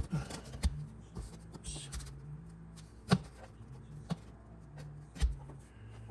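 Cardboard template being handled and fitted into a rusted floor pan: scattered light taps and knocks, a few sharper, with a brief scraping rustle a little under two seconds in.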